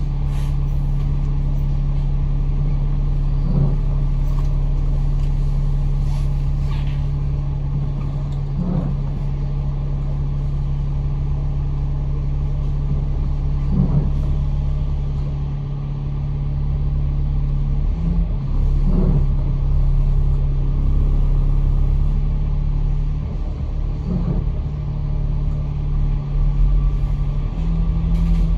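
Bus engine and drivetrain running as heard on board a moving bus, a steady low drone with rumble that shifts pitch about eighteen seconds in and again near the end. A faint swish comes back about every five seconds.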